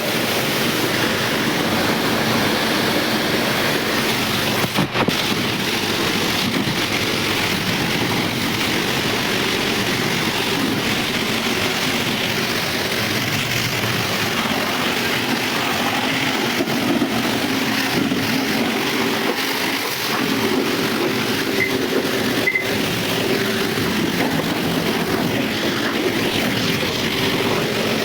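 High-pressure washer spraying water onto a car: a loud, steady hiss of the jet over the hum of the washer's pump, starting abruptly.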